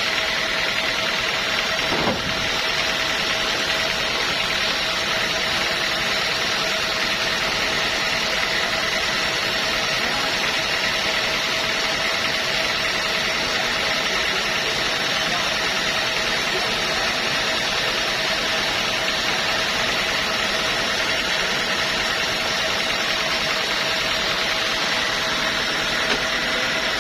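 Sawmill machinery running steadily, a constant mechanical hum with a steady whine, and a single knock about two seconds in.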